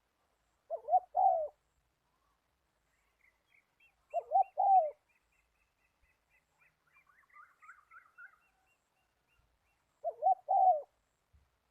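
A dove cooing: three short two-note coos, a few seconds apart, the second note of each the longer. A smaller bird chirps faintly and rapidly at a higher pitch between them.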